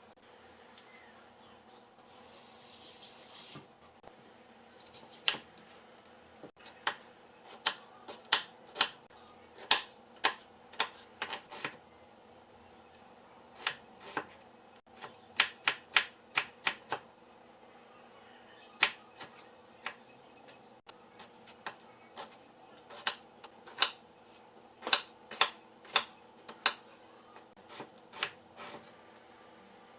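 Kitchen knife chopping on a cutting board: sharp irregular knocks, often in quick runs of several strokes, with a brief hiss about two seconds in. A faint steady hum runs underneath.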